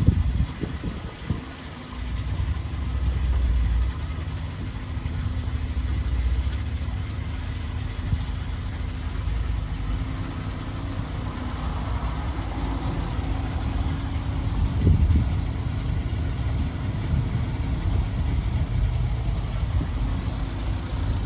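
An engine running steadily at idle, with a low rumble and a constant hum.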